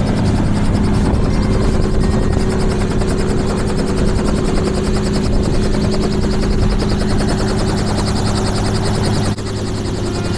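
Helicopter running: a steady turbine and rotor hum with a rapid, even blade pulsing. The level drops a little about nine seconds in.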